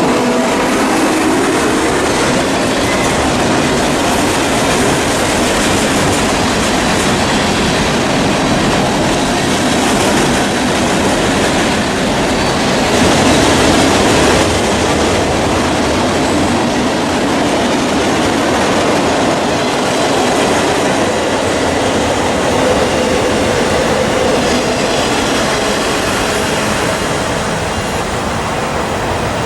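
A train rolling past close by: a loud, steady rush of steel wheels on the rails, swelling briefly about halfway through.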